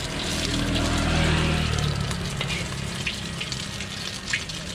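Egg and oil sizzling and crackling in a hot wok, a steady hiss with scattered sharp pops. A low hum swells and fades in the first two seconds.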